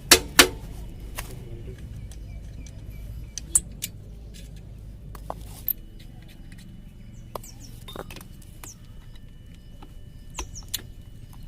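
Metal tools and parts clinking and knocking during hands-on work on a moped, with two sharp knocks right at the start and scattered lighter clicks after, over a steady low hum.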